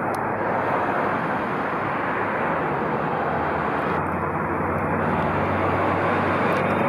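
Steady noise of street traffic, an even rush of vehicles with a faint low hum underneath.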